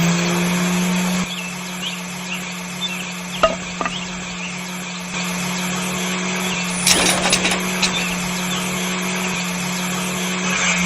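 Small electric motor running at a steady speed with a constant hum, with a few sharp ticks about three and a half seconds in and a short clatter about seven seconds in.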